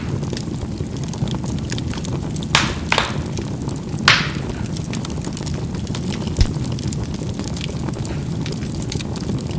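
Charcoal burning in a fireplace: a steady low rush of flame with scattered crackles and a few sharp pops as the charcoal bursts, the loudest about four seconds in, and a soft low thud a little after six seconds.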